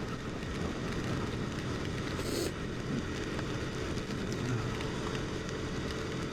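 A KTM RC motorcycle's single-cylinder engine running at a steady speed under a steady rush of wind and wet-road noise, with a brief hiss about two seconds in.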